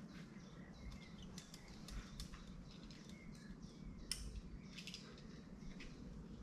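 Faint birds chirping, with scattered short clicks and scuffs.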